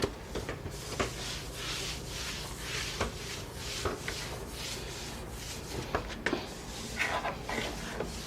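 A damp rag wiping a floor with a pine cleaner in quick back-and-forth strokes, about two a second, with a few light knocks.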